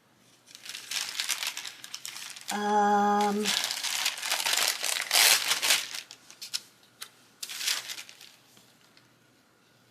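Sticker sheets and paper crinkling and rustling as large stickers are peeled and placed in a planner, in irregular bursts that die away near the end. A short held hummed note comes about two and a half seconds in.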